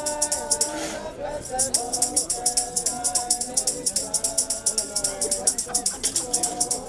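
Several voices singing together, with a shaker or maraca keeping a fast, steady beat.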